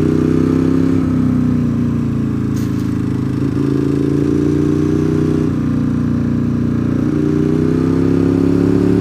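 Motorcycle engine running under way on a twisty road, its pitch stepping up and down several times as the rider works the throttle and gears.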